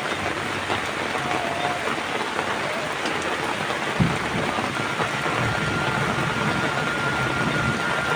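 Heavy rain falling steadily on surfaces, a constant hiss, with one sharp knock about four seconds in and a thin steady high tone from about five seconds in.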